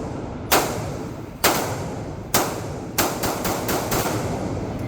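Gunshots fired one at a time about a second apart, then a quicker run of several shots a little after three seconds in, each shot followed by a short echoing tail.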